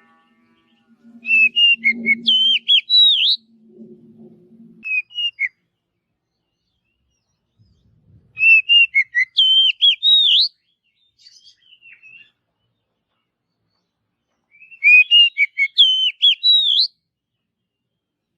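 Oriental magpie-robin (kacer) singing: three whistled song phrases of quick, varied notes, each ending on rising high notes, with short calls between them. A low steady hum runs under the first phrase.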